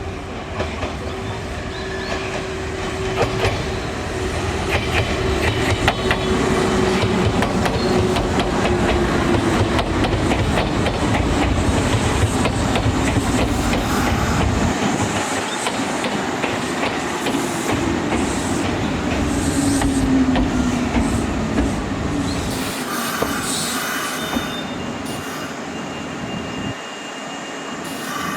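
Kintetsu electric train running through a station, its wheels clattering over the rail joints in a quick run of clicks, with an electric motor whine that glides in pitch. The deep rumble drops away about halfway through.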